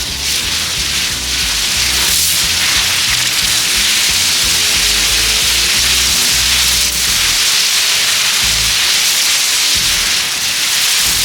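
Hundreds of small colored pyrotechnic comets (luciérnagas) burning together, a loud dense steady hiss that swells about two seconds in. Background music plays underneath.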